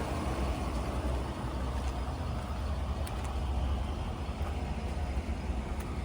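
2020 Ford F-150's 5.0-litre V8 idling, a steady low rumble.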